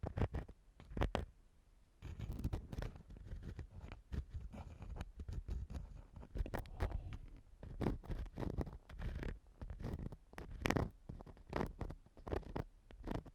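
Ear-cleaning tool scratching and rubbing against a microphone for ASMR ear cleaning: a few separate strokes at first, then about two seconds in, continuous close scraping and rubbing with a low rumble.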